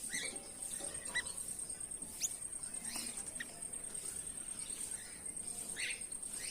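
Goldfinches giving short, scattered chirps, several a second or so apart, some sweeping up or down in pitch. A steady high-pitched whine runs behind them.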